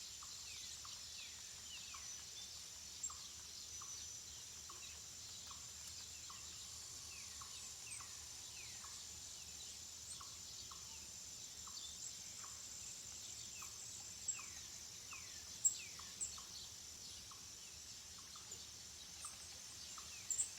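A chorus of wild birds singing: many short falling whistles and short repeated notes, over a steady high-pitched hiss. A few sharper, louder chirps come in the second half.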